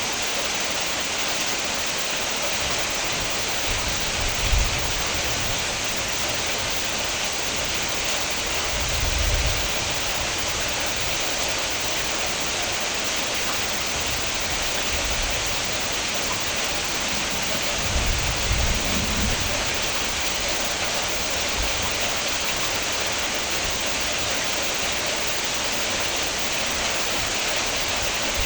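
Steady, heavy rain hiss. Three brief low rumbles break in, about four, nine and eighteen seconds in.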